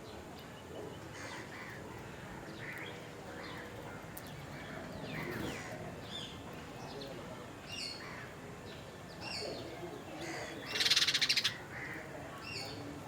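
A mix of wild birds calling, with short chirps and whistled notes throughout and one call repeating a few times. About eleven seconds in, the loudest sound comes: a harsh, rapid rattling call lasting about half a second.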